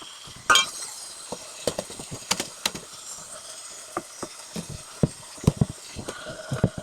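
SharkBite push-fit fitting being fitted onto a cut copper pipe by hand: a run of small, irregular metal clicks and knocks, thicker in the second half.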